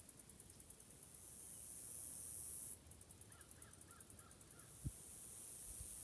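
A crow cawing in the distance, a quick run of about six caws in the middle, over a steady very high-pitched hiss that turns into a fast pulsing partway through. A soft low bump comes near the end.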